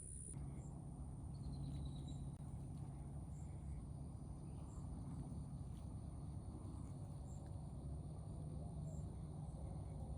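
Outdoor ambience by a lake: insects chirping, with short high chirps repeating about once a second over a steady high tone, a faint low steady hum beneath, and a brief falling bird note about a second and a half in.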